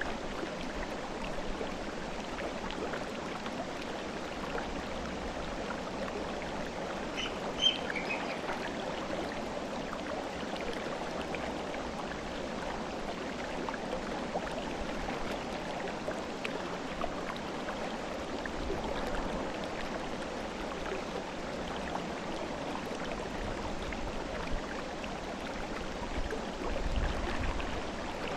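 Mountain river flowing steadily, a continuous rushing of water. A few short bird chirps come about a quarter of the way in, and a brief low rumble swells near the end.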